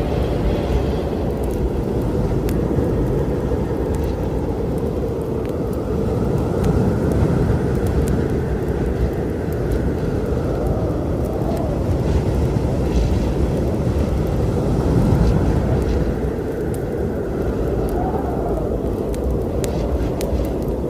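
A steady low rumble of storm wind, with faint rising and falling gusts, over scattered sharp crackles of a wood fire.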